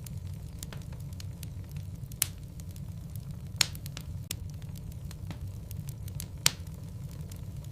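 Wood logs burning in a fireplace: a steady low rumble of flame under a constant light crackle, with three loud sharp pops from the burning wood, about two, three and a half, and six and a half seconds in.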